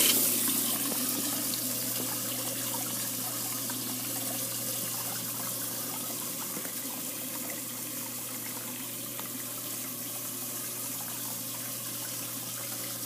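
AquaRest spa's backlit waterfall switched on, water gushing in loudly at first and then settling to a steady pouring splash into the spa. A steady low hum runs underneath.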